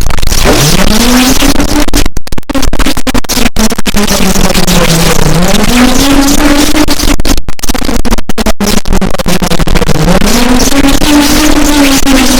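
Harsh noise: a loud, continuous wall of distorted noise that kicks in abruptly, with a low droning tone slowly rising and falling underneath and brief dropouts cutting through it.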